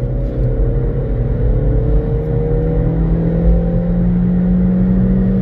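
Car engine at high revs, heard from inside the cabin, pulling hard in gear with its note rising slowly and steadily as the car accelerates.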